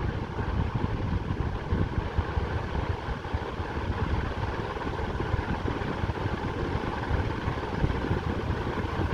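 Atomberg Renesa Smart+ BLDC ceiling fan running at full speed in boost mode: a steady rush of moving air with an uneven low rumble and a faint steady hum above it.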